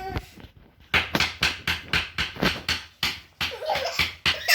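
A spoon banged rapidly and repeatedly on a hard surface: a quick run of sharp knocks, several a second. A small child's laughing voice follows near the end.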